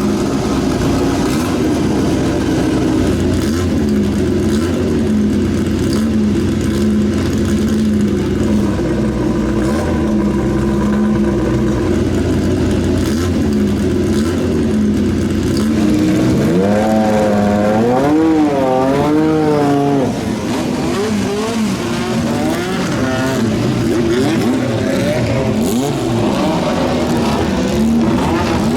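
Jaguar XJR-11's 3.5-litre twin-turbocharged V6 running at a steady pitch, then revved up and down several times in quick succession a little past the middle, followed by revs rising and falling unevenly.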